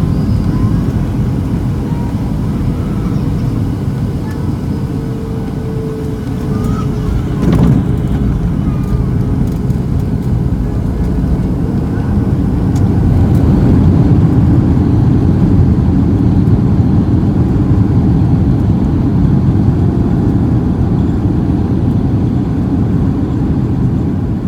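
Cabin noise of a Boeing 737-700 with CFM56 engines during its landing: a steady low rumble of engines and airflow, a short thump about seven seconds in, and the rumble growing louder from about halfway through.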